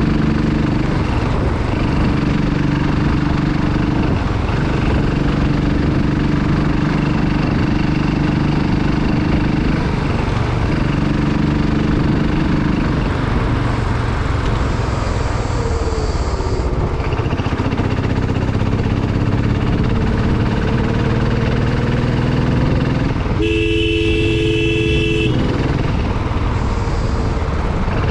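Motorcycle engine running under way, its pitch dropping and rising every few seconds as the revs change. About two-thirds of the way through, a vehicle horn sounds steadily for about two seconds.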